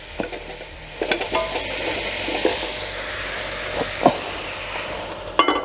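Onions and cabbage sizzling in butter and olive oil in a cast-iron pot, with a few knocks of a utensil. Near the end comes a ringing metallic clank, and the sizzle is muffled after it, as when the lid goes on.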